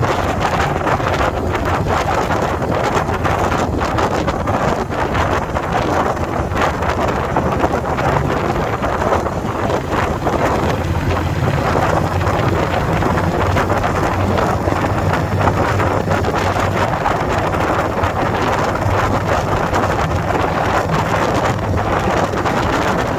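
Heavy wind buffeting the microphone over the steady running of a 2021 Indian Scout Bobber Twenty's V-twin engine on the move.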